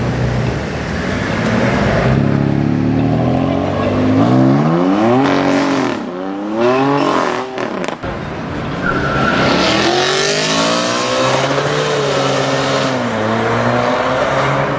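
Sports car engines accelerating hard: the engine note climbs steeply several times in the first half as it shifts up, then another car revs up and passes loudly about ten seconds in, leaving engines running more steadily near the end.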